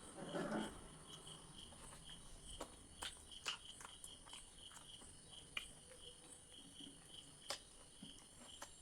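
Faint eating sounds: a short chewing burst just after the start and several sharp clicks scattered through, over crickets chirping steadily in the background at about three chirps a second.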